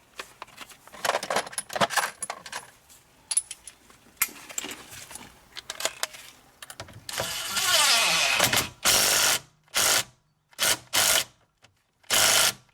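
Power impact gun running a bolt in lightly: one run of about a second and a half, then four short bursts on the trigger. Before it come several seconds of small clicks and rattles of parts and tools being handled.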